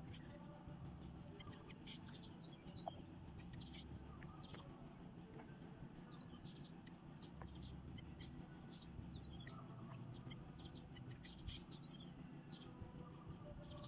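Birds chirping faintly, with many short high calls and little trills scattered throughout, over a steady low hum.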